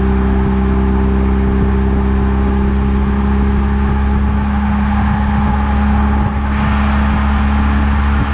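A Eunos Roadster being driven: a steady low rumble of engine and road noise with a constant hum. About six and a half seconds in, the hiss gets louder.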